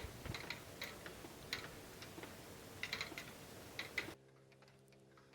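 Scattered light clicks and ticks at an uneven pace, some in quick little clusters, over a faint background. About four seconds in it drops to a quieter steady hum with fainter ticks.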